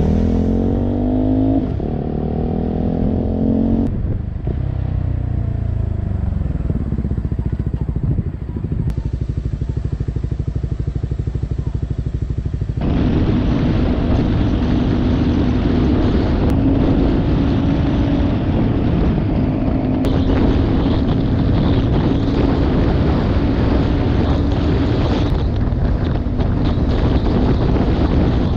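Motorcycle engine accelerating, its pitch rising in steps through the first few seconds, then running more steadily. From about halfway, heavy wind noise on the microphone rushes over the engine as the bike cruises at speed.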